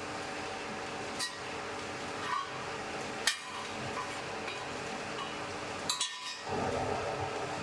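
Blacksmith's forge fire running with a steady hum and rush, broken by several sharp metallic clinks, the clearest just past a third of the way in and two close together later on. A short louder rush of noise follows near the end.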